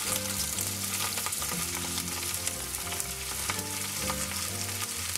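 Cut okra and sliced onion sizzling and crackling in hot coconut oil in a frying pan as handfuls are dropped in.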